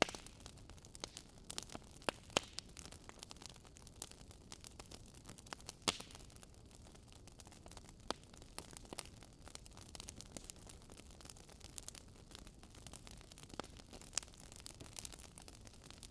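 Campfire crackling: irregular sharp pops and snaps, a few much louder than the rest, over a low steady rustle of the burning wood.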